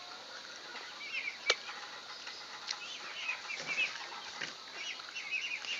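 Faint, scattered chirping of small birds, with a few crisp crunches as raw corn on the cob is bitten and chewed, the sharpest about one and a half seconds in.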